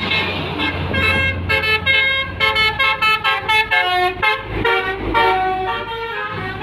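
Basuri multi-tone musical air horn on a Hino 500 tanker truck, playing a quick tune of short notes over the low steady hum of the truck's engine.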